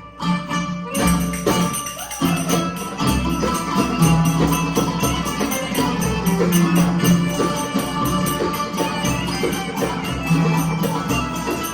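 Live band playing an upbeat instrumental passage with a tambourine-like jingling beat, no singing.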